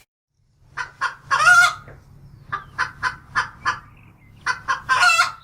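Chicken clucking and cackling: runs of short, sharp clucks, twice ending in a longer drawn-out call.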